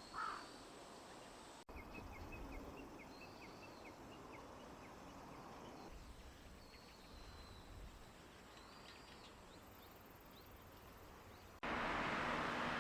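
Small birds calling faintly over a quiet outdoor hush: first a quick run of short chirps, then scattered higher calls. Near the end a louder steady rushing noise comes in.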